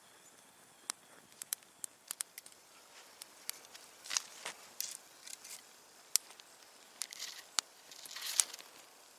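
Wood fire crackling, with scattered sharp pops at irregular intervals and a couple of brief rustles about four and eight seconds in.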